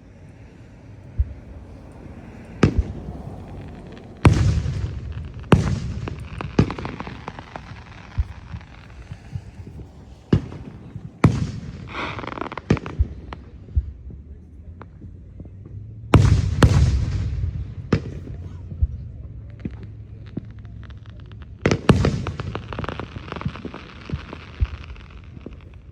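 Aerial fireworks bursting: a run of sharp bangs, each with a rolling rumble behind it, coming in clusters every few seconds, with a stretch of crackling midway.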